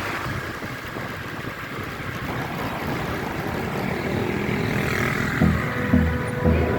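Motorcycle riding along the road, its running and the wind making a steady rushing noise. About five seconds in, a music beat with regular low thumps comes in.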